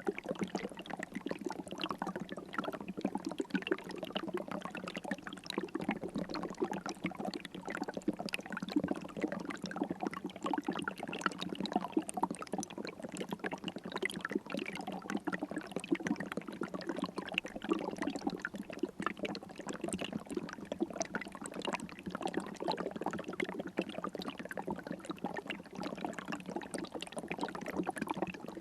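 River water flowing and babbling steadily, a dense even trickle and splash with no pauses.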